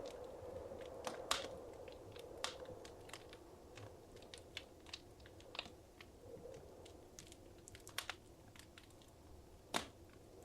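Wood fire crackling in a fireplace: irregular sharp pops and snaps over a low steady hiss, with the loudest pops about a second in and near the end.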